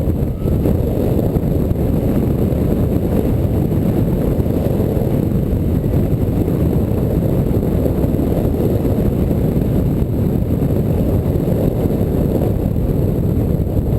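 Steady, loud low rumble of wind buffeting the microphone, with no clear engine note.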